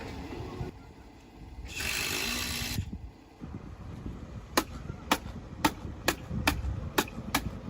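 A construction tool striking in a steady rhythm: sharp knocks, about two a second, through the second half, after a hiss lasting about a second.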